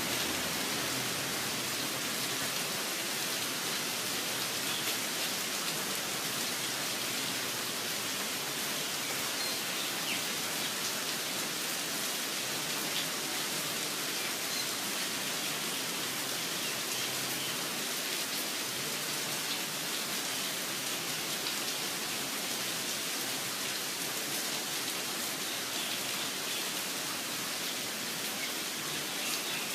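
Steady rain falling, an even hiss, with a few faint bird chirps now and then.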